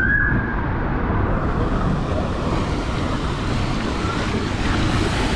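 Steady rushing noise of wind buffeting the microphone over running water. A brief high tone sounds right at the start.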